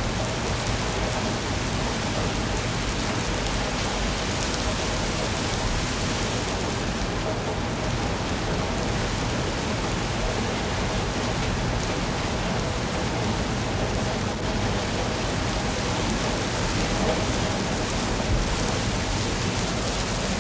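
Steady rain falling, an even, unbroken hiss of drops with no single sounds standing out.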